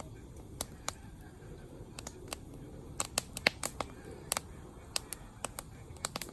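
Wood campfire crackling, with many sharp, irregular pops that are busiest around the middle, over a steady low rumble of the burning fire.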